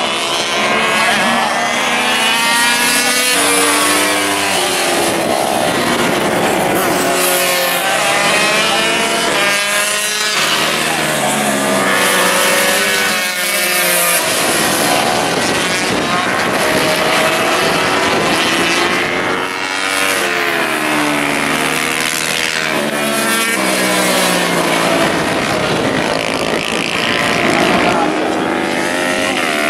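Racing motorcycles going past one after another at full throttle, their engine notes repeatedly climbing in pitch and then dropping, several bikes overlapping at times.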